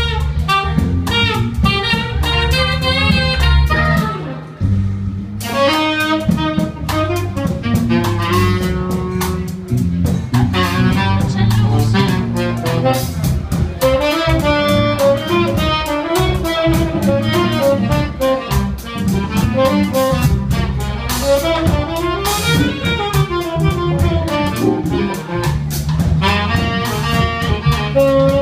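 Live jazz-funk band of tenor saxophone, trumpet, Hammond organ and drums playing a groove, with the saxophone prominent. The band drops back briefly about four seconds in, then comes back in full.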